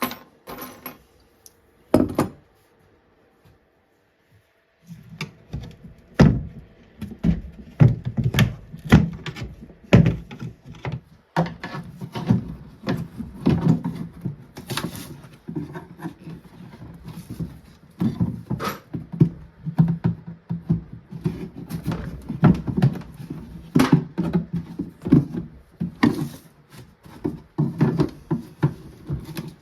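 Irregular wooden knocks and thuds from work on an old wooden chest: a few sharp knocks in the first two seconds, then a dense, uneven run of knocking and clattering from about five seconds in.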